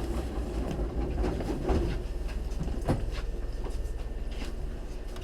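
Hankyu 3300 series train car standing at a platform: a steady low hum from the car with scattered knocks and clicks, the clearest about a third and halfway through.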